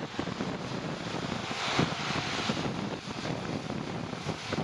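Wind rushing over the microphone of a moving bicycle rider: a steady noisy rumble, with a louder hiss for about a second near the middle.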